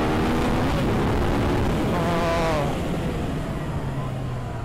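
Yamaha XSR 900's three-cylinder engine pulling under throttle while riding, heard from onboard with wind rush. About two seconds in the note wavers, then it drops to a lower, steadier and quieter note as the throttle is eased.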